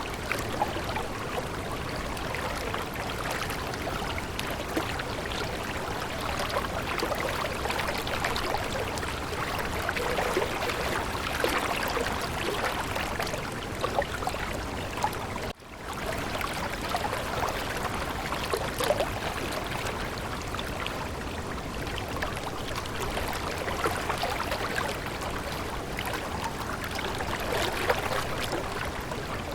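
Stream water flowing and trickling steadily, with a dense patter of small splashes. It cuts out for a split second about halfway through and then carries on.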